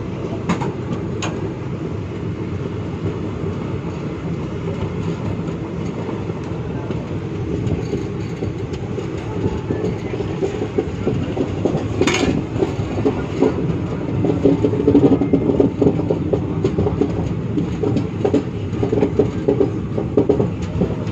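Passenger train running on the track, heard from inside a coach by its open door: a steady rumble of wheels on rails with clickety-clack. A sharp click comes about halfway through, and the rattling grows louder in the last third.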